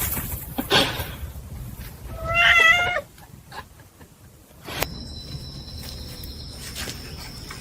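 A domestic cat meows once, a short wavering call about two seconds in, amid a few knocks and rustles. A faint steady high-pitched tone sets in during the second half.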